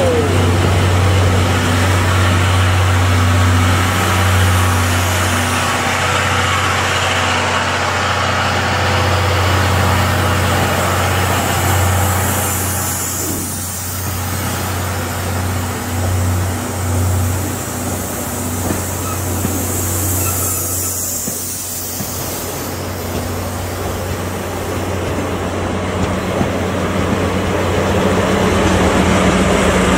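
Steam-hauled passenger train of brake van, 14 series coaches and a DE10 diesel locomotive at the rear rolling slowly past at close range: a steady low engine drone under a noisy rush of rolling stock, growing louder near the end as the DE10 diesel passes.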